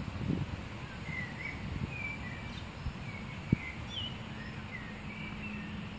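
Small birds chirping in short, scattered calls over steady outdoor background noise. A few low rustles come near the start, a single sharp knock about three and a half seconds in, and a low steady hum joins shortly after.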